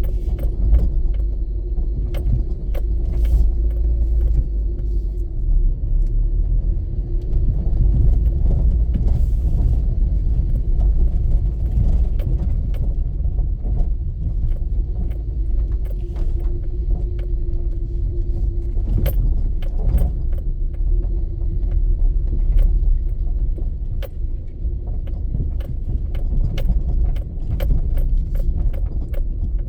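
Steady low rumble of a moving road vehicle, with scattered clicks and rattles throughout.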